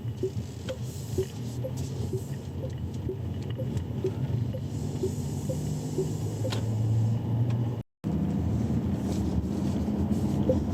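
Chery Omoda 5 cabin with a steady low rumble and an even tick-tock about twice a second, the rhythm of a turn-signal indicator. The sound cuts out completely for a moment about eight seconds in.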